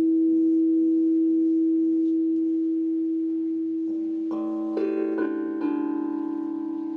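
A crystal singing bowl holds one steady, slowly fading tone. About four seconds in, chimes are struck several times in quick succession and ring on over it.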